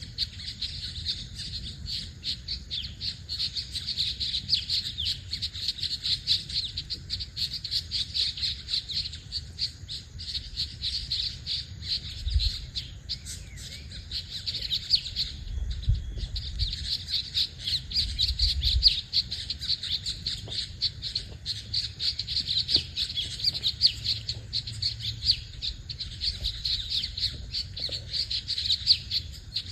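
A dense chorus of many small birds chirping and twittering rapidly without pause. A low rumble runs underneath and swells a few times around the middle.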